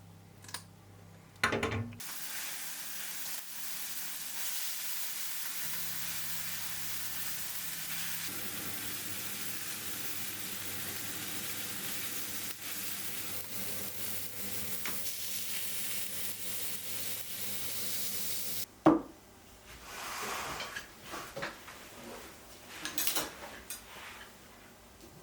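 Food sizzling in a frying pan, a steady hiss that starts about two seconds in and cuts off suddenly after about sixteen seconds. A few short knocks and clinks follow near the end.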